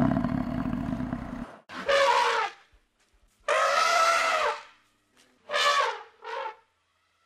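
A Highland cow's deep bellow that cuts off suddenly about a second and a half in, followed by elephants trumpeting: four calls, the second the longest.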